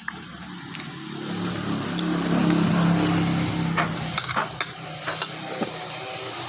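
A motor vehicle's engine running steadily, swelling to its loudest about two to three seconds in and then easing off, with several sharp clicks over it in the second half.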